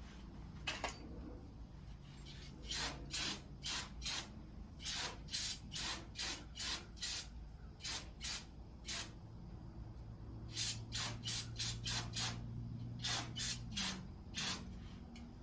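Short hissing bursts of brake cleaner sprayed onto adhesive residue on a truck's rear, fired in runs of quick squirts about two to three a second with short pauses between runs.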